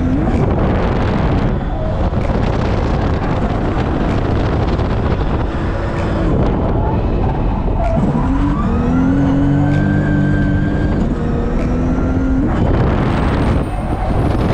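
Turbo 1JZ-GTE engine of a Lexus IS300 drift car, heard from inside the cabin, running hard under load as the car is drifted, with tyre noise. About eight seconds in, the engine note rises and then holds a steady pitch for about four seconds.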